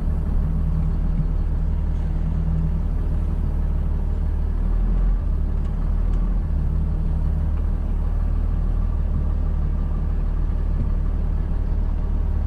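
Pickup truck engine running steadily: a low drone, shifting a little about five to six seconds in.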